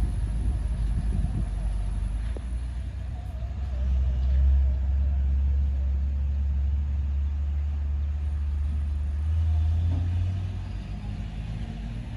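Truck engine with an open, unmuffled exhaust running with a deep low rumble. It swells about four seconds in, lifts slightly in pitch around nine to ten seconds, then eases off near the end.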